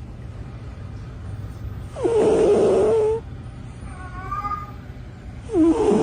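A cat yowling: one drawn-out call about two seconds in and a shorter one near the end.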